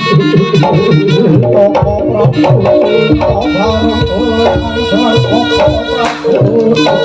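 Javanese jaranan ensemble music played live: kendang hand drums beating a fast, busy rhythm under steady ringing gong-chime tones and a wavering reedy melody.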